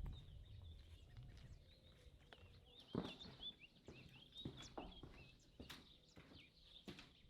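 Near silence with faint, scattered knocks and clicks, a slightly louder knock about three seconds in, and a run of faint, short high chirps between about three and five seconds.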